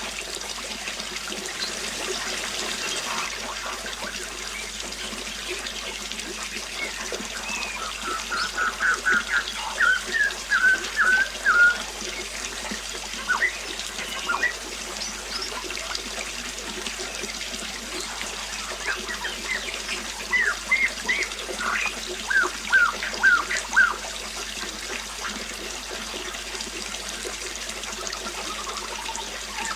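Water trickling steadily, with a songbird singing two runs of quick repeated chirping notes, one about a third of the way in and another about two-thirds in.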